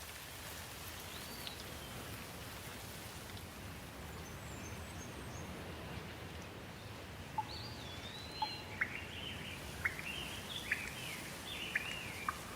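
Birds singing over a steady background hiss: one whistled call early, then from about halfway a run of sharp chirps and short whistled phrases.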